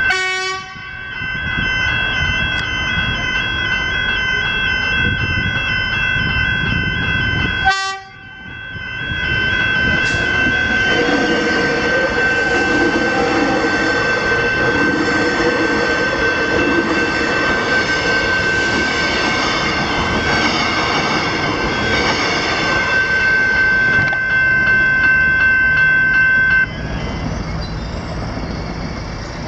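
Level crossing electronic bells ringing steadily, with a train passing through the crossing: its rumble and clatter build from about nine seconds in. The bells stop suddenly near the end as the crossing clears. The sound drops out briefly twice, near the start and about eight seconds in.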